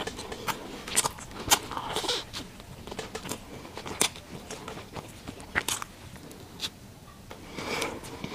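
Close-miked chewing of a mouthful of soft bread with a sticky mochi and peach filling: wet mouth clicks and smacks, roughly two a second.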